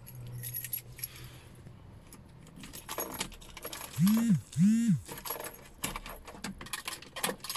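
Keys jangling and clicking at a diesel car's ignition, then two short whirs of an electric motor, each quickly rising in pitch, holding and dying away, about four seconds in.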